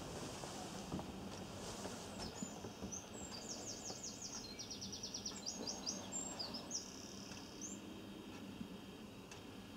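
A small songbird singing: several quick, high trilling phrases one after another, from about two seconds in to near eight seconds, over a low steady background hiss.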